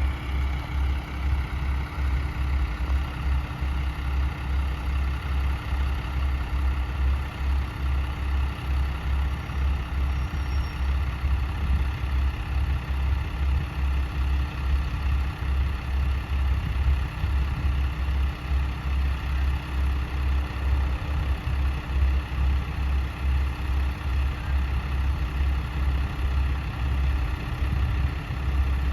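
Diesel railcar engine idling steadily with a pulsing low rumble and an even hum.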